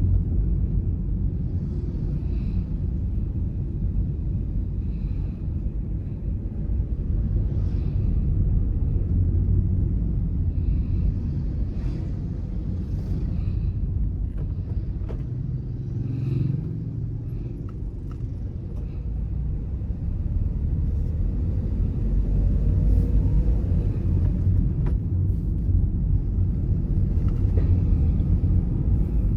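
Car being driven along a road: a steady low rumble of engine and tyres, with faint scattered clicks.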